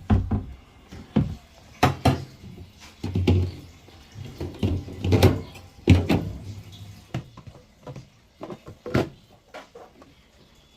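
Pots and food containers being set onto refrigerator shelves: irregular knocks, thuds and clatter, about a dozen, thinning out near the end.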